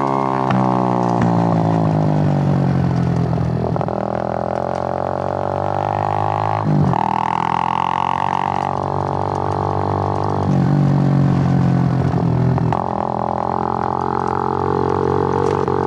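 Suzuki GN125's single-cylinder four-stroke engine running on the move. Its note falls in the first second, then changes pitch abruptly about four times.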